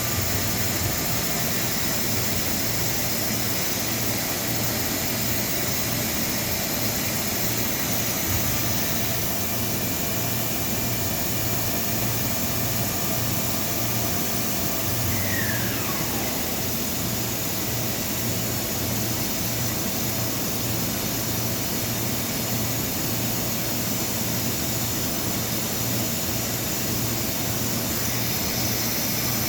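Steady industrial machine noise, a continuous rushing hiss over a pulsing low hum, with a short falling whistle about halfway through.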